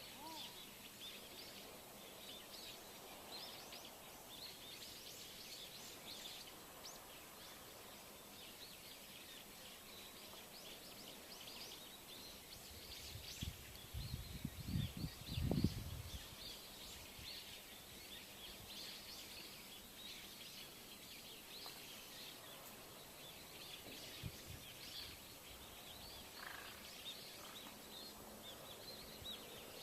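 Outdoor natural ambience full of small birds chirping, many short high calls overlapping throughout. About halfway through comes a few seconds of louder low rumbling bursts.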